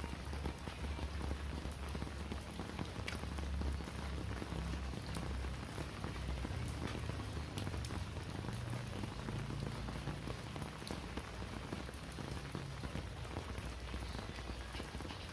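Steady rain falling on surfaces, with scattered drops tapping close by.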